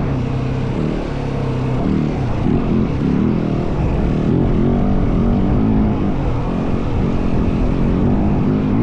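Yamaha WR450F dirt bike's single-cylinder four-stroke engine running hard off-road, its revs rising and falling continuously with the throttle.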